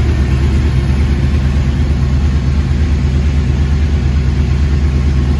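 Sport-bike engine idling steadily through an Akrapovic slip-on exhaust, a deep even rumble with no revs.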